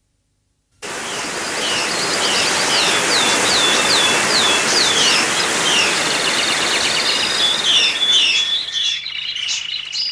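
Small birds chirping in quick, repeated calls over a steady rushing noise that begins abruptly about a second in and fades near the end, leaving the chirps.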